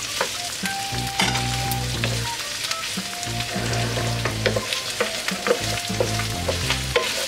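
Hotdog pieces and boiled pork belly sizzling in oil in a nonstick pan, with a spatula clacking and scraping irregularly against the pan as they are stirred.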